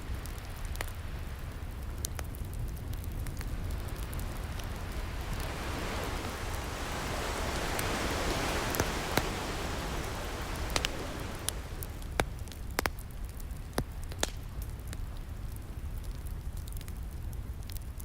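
Wood fire crackling with sharp, scattered pops over the steady wash of ocean surf; a wave swells and breaks near the middle, then recedes.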